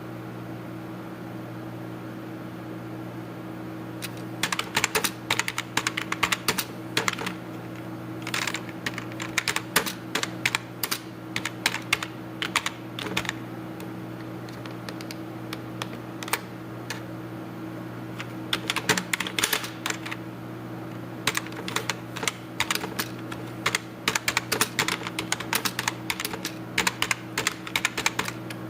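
Typing on a computer keyboard: bursts of rapid key clicks beginning about four seconds in, broken by a few short pauses, over a steady low hum.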